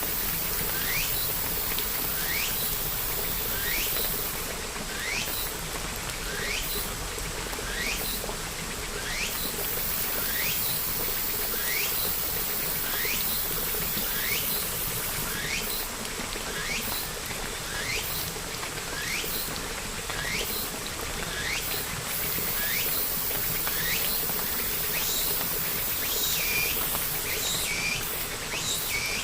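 Steady rain hiss with a small animal's short rising chirp repeating about once a second over it; near the end the chirp changes to a different, hooked call.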